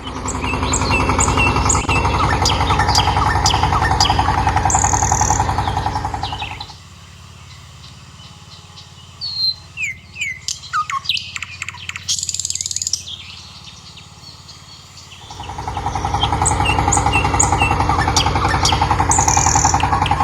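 Birds chirping over a loud steady low hum; the hum drops away for several seconds in the middle and then builds back.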